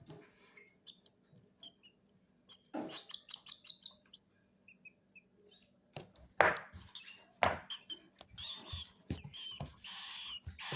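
Baby cockatiels' food-begging calls during hand-feeding: short faint chirps at first, then louder raspy bursts from about halfway through, with a few sharp clicks.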